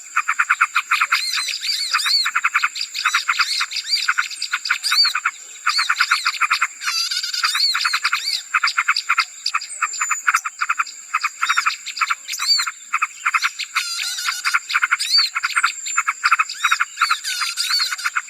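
Busy chorus of many small birds chattering and chirping rapidly, with a steady high whine running under it, played as a bird-lure ('suara pikat') recording to attract small birds.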